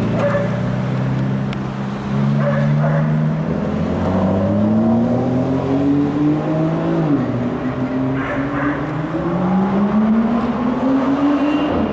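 Aston Martin DB11 accelerating hard. Its engine note climbs, drops at an upshift about seven seconds in, then climbs again through the next gear.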